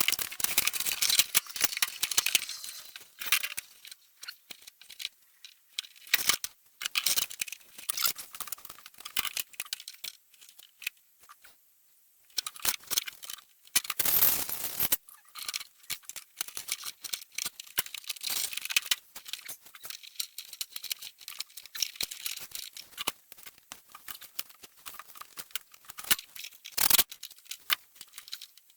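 Hand-work noises from pipe fitting: repeated small clicks, clinks and rattles with rustling as fittings and tools are handled, pausing briefly now and then, with a louder burst of handling about halfway through and a sharp clatter near the end.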